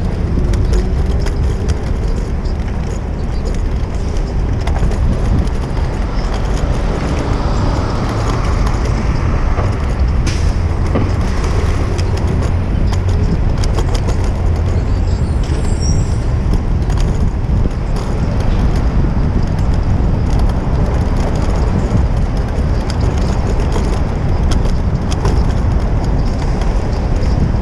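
City street traffic heard from a moving bicycle, under a steady low wind rumble on the action camera's microphone.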